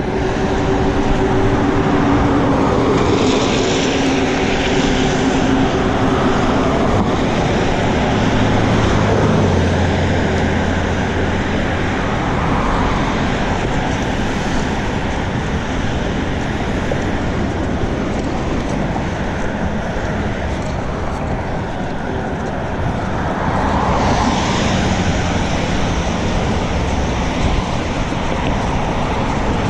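Steady rush of wind over the microphone of a camera on a moving bicycle, with road traffic passing alongside.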